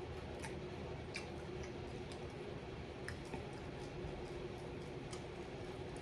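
Close-up mouth sounds of someone chewing fried chicken: scattered wet smacks and clicks at an irregular pace over a steady background hum.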